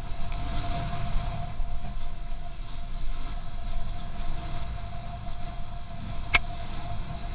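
Motor vehicle on the move: a low engine and road rumble with a thin steady whine over it, and a single sharp click about six seconds in.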